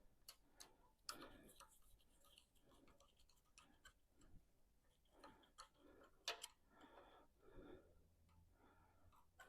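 Near silence with faint, irregular light clicks and knocks, the loudest a sharp click a little past the middle.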